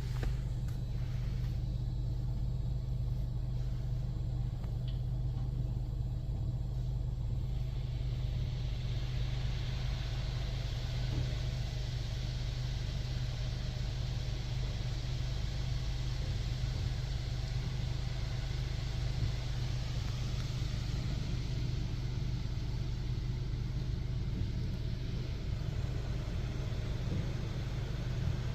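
Touchless car wash spraying pre-soak onto the car, heard from inside the cabin: a steady low hum throughout, with a hiss of spray that builds up from about eight seconds in and then holds steady.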